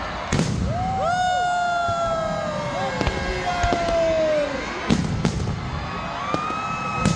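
Fireworks going off: a sharp bang, then several whistling shells with long, slowly falling whistles, and more bangs about five seconds in and near the end, over crowd chatter.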